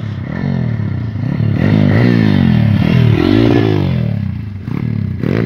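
Pit bike engine revving up and down as it is ridden, its pitch rising and falling several times and loudest two to three seconds in.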